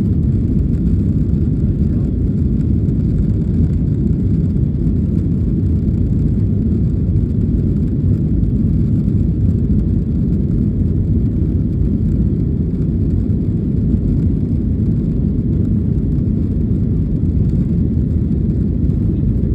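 Boeing 737 jet engines at takeoff power: a loud, steady low rumble that holds even throughout.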